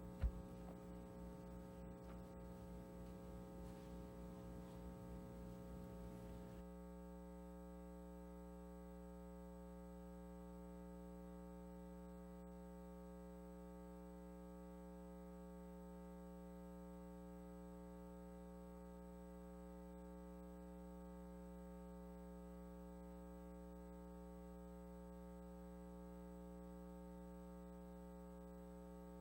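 Near silence with a steady electrical mains hum from the recording or sound system. A single sharp click comes just after the start, with faint room noise for the first several seconds; after that only the hum remains.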